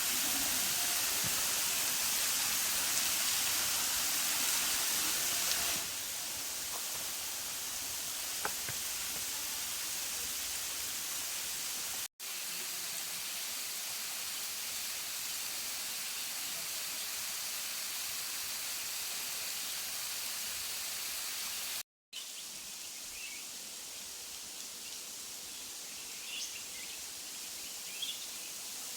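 Waterfall rushing: a steady hiss of falling water, cut off briefly twice. Small bird chirps sound over it near the end.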